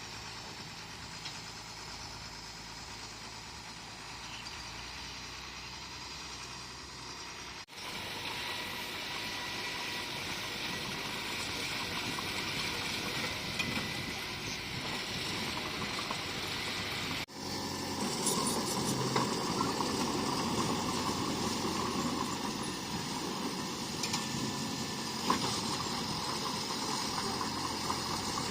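Diesel engine of heavy earthmoving equipment running steadily, in three stretches split by abrupt cuts about 8 and 17 seconds in, each louder than the one before, with a few light clanks.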